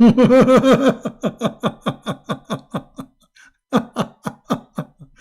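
A man laughing: a long run of quick "ha-ha" pulses that trails off, then a second, shorter run of laughter near the end.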